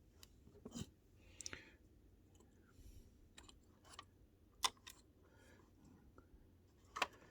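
Faint, scattered light clicks and taps from a small plastic 1/16-scale RC truck being handled and turned over, the sharpest click a little over halfway through.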